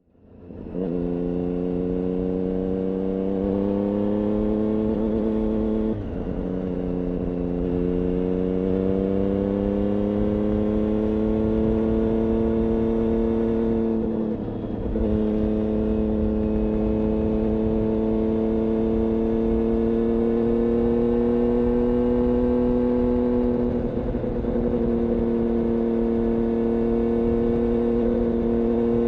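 Triumph Daytona 675's inline three-cylinder engine running through an IXIL aftermarket exhaust at a steady, fairly high speed, its pitch dipping briefly and climbing back a few times.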